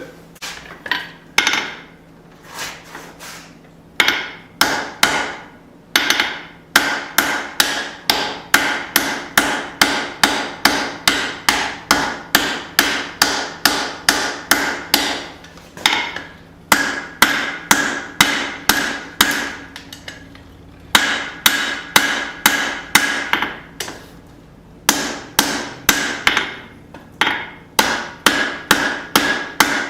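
Hammer blows on hot steel over an anvil, forging a small hatchet head, with a bright ring after each strike. The blows come about two to three a second, in runs broken by short pauses.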